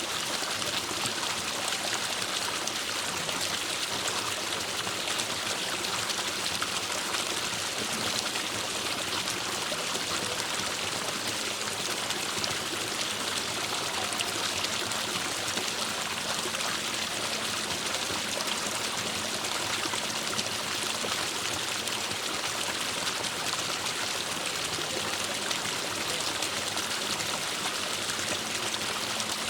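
Forest stream flowing: a steady, even rush of water, without pause or change.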